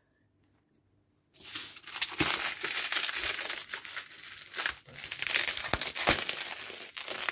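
Bubble wrap being handled and pulled off a boxed model car: a continuous rustling with many sharp crackles, starting about a second and a half in.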